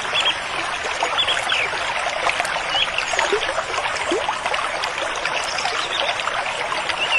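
Steady rush of running, trickling water, with small birds chirping now and then above it.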